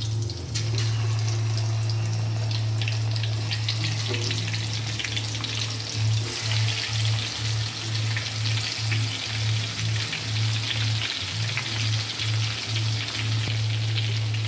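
Pre-cooked, masala-coated chicken pieces frying in hot oil in a pan: a steady sizzle with crackling that grows louder about six seconds in. A low hum runs underneath and turns into an even pulsing, nearly twice a second, from about the same point.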